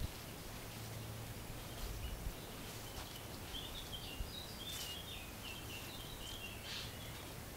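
A songbird singing short phrases of quick, stepped high notes in the second half, over a steady low background rumble of outdoor ambience.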